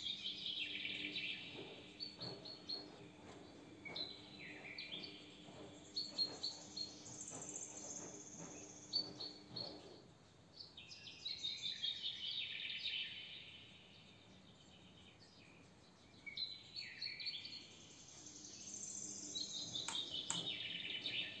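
Small birds singing in short, repeated twittering phrases that fall in pitch, with a faint steady low hum underneath during the first half and again near the end.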